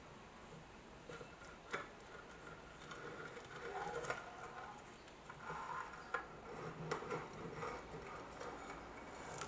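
Faint hand work on a steel bayonet: scattered light clicks and taps, with short metallic scrapes that ring briefly.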